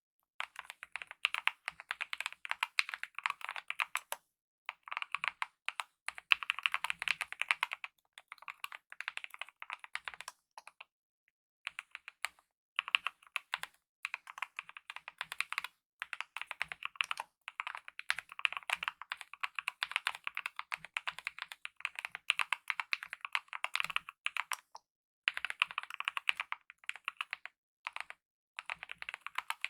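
Continuous fast typing on a mechanical keyboard with lubed optical linear red switches and DSA-profile keycaps: dense runs of light keystroke clacks, broken by brief pauses a few times.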